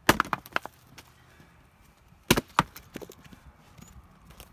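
Axe chopping firewood: two heavy blows about two seconds apart, each followed by a few lighter knocks. The axe keeps missing its mark.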